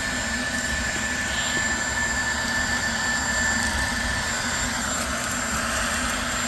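Vacuum cleaner motor running steadily with a high whine, its pitch easing slightly near the end as the airflow changes.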